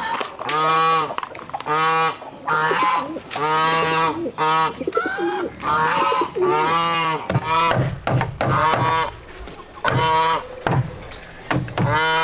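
Repeated honking calls of domestic geese, each call short and clipped, coming roughly once a second. From a little past halfway, a run of sharp knocks joins the calls.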